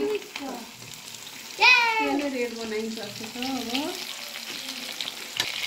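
Breaded chicken pieces deep-frying in a pan of oil, a steady sizzle as they are stirred with a spoon. A person's voice calls out briefly over it about one and a half seconds in, and more softly about three seconds in.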